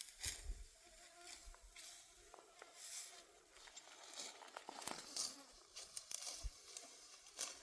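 A fly buzzing in faint wavering tones, over irregular crisp rustles and crackles every half-second or so.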